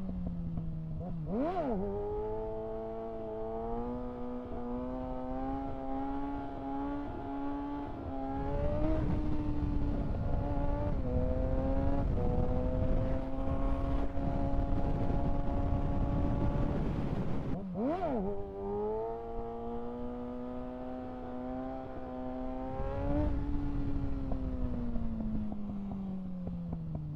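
Kawasaki ZX-6R 636 inline-four engine under way with wind rushing over the microphone. Its pitch drops off the throttle, jumps in a sharp, brief rev blip about a second and a half in and again about eighteen seconds in, holds steady between, and falls away near the end.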